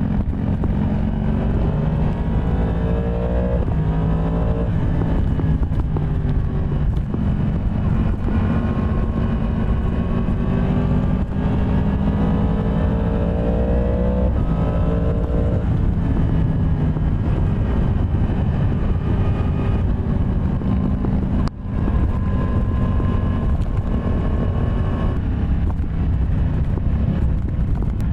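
Yamaha MT-10 SP's crossplane inline-four engine under way, its pitch rising as it pulls up through the revs twice in the first half, then running steadier. Heavy low rumble underneath throughout.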